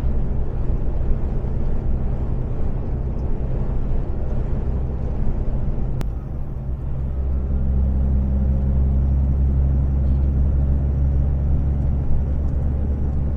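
Iveco Stralis 510 truck's six-cylinder diesel engine running on the road, a steady low drone heard from the cab. Just after the middle it dips briefly, then pulls louder and deeper for the rest of the stretch.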